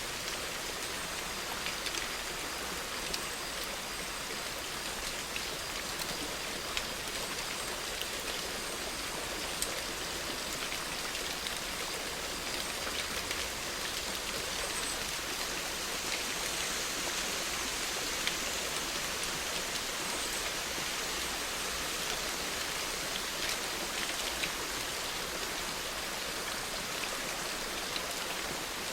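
Steady rain falling, an even hiss with scattered close drops ticking sharply.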